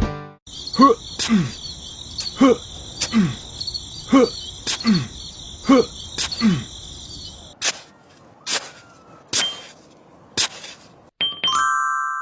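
Steady cricket-like insect chirring with a short falling pitched call repeating about once a second over it. After about seven seconds the chirring stops, a few sharp clicks follow, and a short chime sounds near the end.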